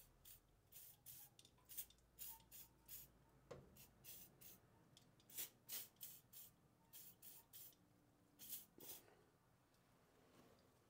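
Faint, quick squirts of aerosol spray lubricant, a string of short hisses at an uneven pace, a couple each second, worked into the saw arm's pivot so it turns freely.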